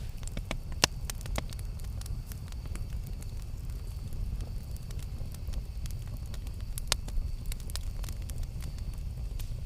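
Campfire burning with a steady low rumble and scattered sharp crackles and pops, the loudest pops about a second in and near seven seconds in.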